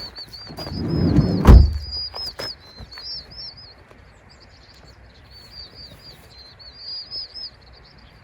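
Small birds chirping in a continuous high twittering of short, quick notes. About one and a half seconds in, a low rumbling swell ends in a thump, the loudest sound, with a few light clicks scattered through.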